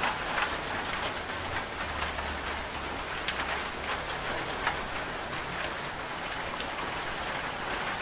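Steady rain falling, with many separate drops striking a surface. A faint low hum from the washing machine comes in underneath for a couple of seconds, starting about one and a half seconds in.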